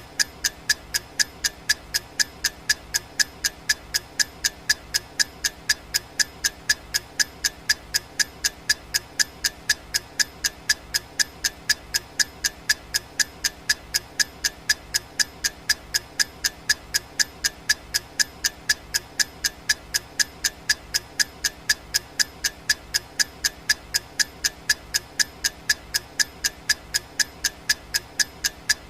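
Clock ticking sound effect: sharp, evenly spaced ticks at about two a second, keeping time for a countdown timer.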